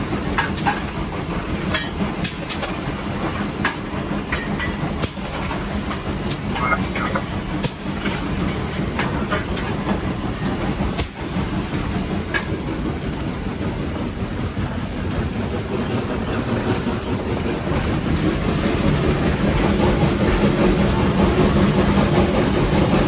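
Nevada Northern No. 81, a Baldwin 2-8-0 steam locomotive, heard from inside its cab while working under way: a steady rumble and hiss with rail clatter and scattered sharp clicks. It grows louder over the last several seconds.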